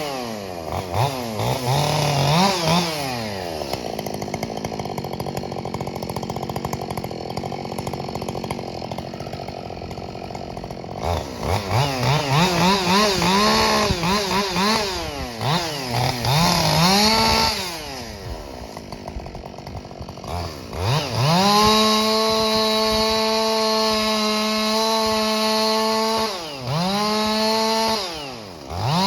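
Ported Husqvarna 572 XP two-stroke chainsaw revving up and down again and again, then held at a steady high full-throttle pitch for about five seconds before dropping and revving back up near the end.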